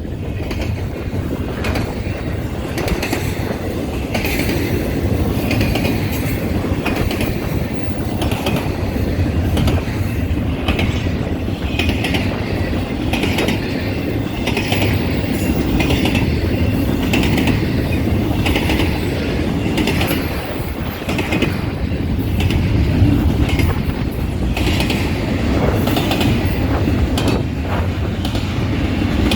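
Intermodal freight train cars rolling past with a steady rumble and a click roughly once a second as the wheels cross a damaged track section that dips down and back up.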